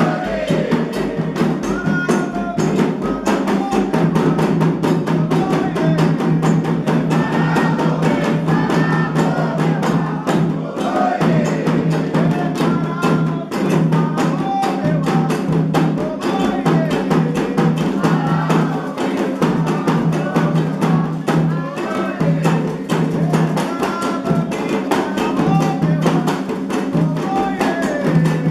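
Candomblé ritual music for Xangô: fast, steady hand drumming on atabaque drums with voices singing over it.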